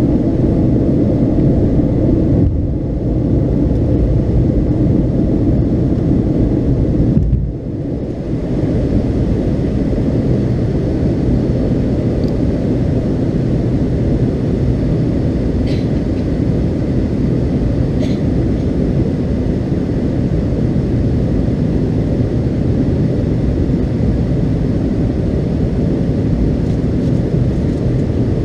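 Cabin noise of a McDonnell Douglas MD-82 airliner with its rear-mounted Pratt & Whitney JT8D turbofans: a loud, steady low rumble, dipping briefly twice in the first eight seconds, with two faint ticks later on.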